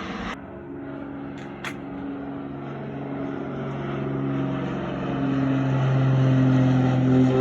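A steady engine drone with a low hum and overtones, growing louder as it nears, with two brief clicks about a second and a half in.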